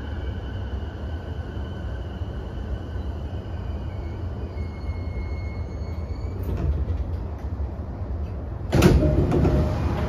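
Interior of an E233-7000 series electric train slowing to a stop: low running rumble with faint motor whine that fades out, and a few clicks about six and a half seconds in. About nine seconds in, the passenger doors slide open with a sudden loud rush of noise.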